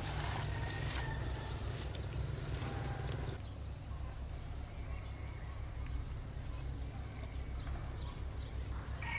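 Outdoor rural ambience: a steady low rumble with a few faint clicks in the first few seconds.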